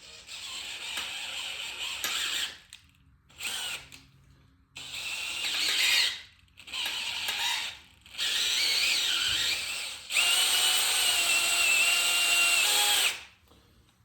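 Power drill boring out a timing-chain guide pivot pin hole to 8 mm in an engine block through a drill guide jig. The drill runs in about six bursts separated by short pauses. The last burst is the longest, a steady whine lasting about three seconds.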